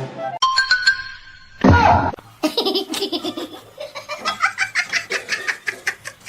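A person laughing hard in a quick run of repeated ha-ha sounds, starting about two and a half seconds in, after a short loud cry that falls in pitch.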